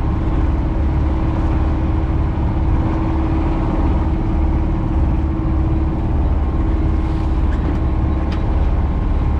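Strong wind buffeting the microphone aboard a sailboat, a steady heavy rumble with a constant hum underneath.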